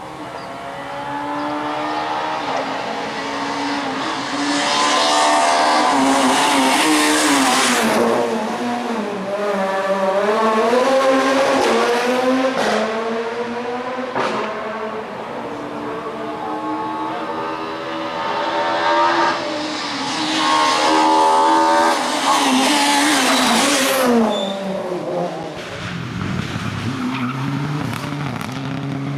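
Rally cars driven flat out on a special stage, their engines revving high and dropping again through gear changes as they pass. There are loud rushes of engine and tyre noise, twice for several seconds.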